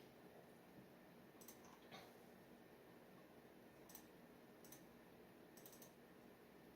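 Faint, sparse clicks and ticks over low room hiss, about half a dozen in irregular spacing: the light tapping and scratching of a steel G nib dip pen at work on paper.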